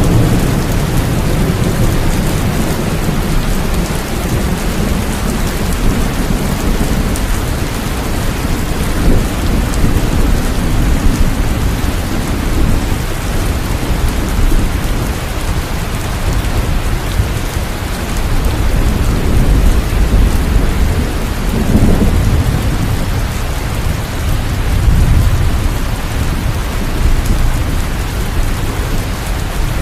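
Steady rain falling, with low rolling thunder rumbling beneath it and swelling several times.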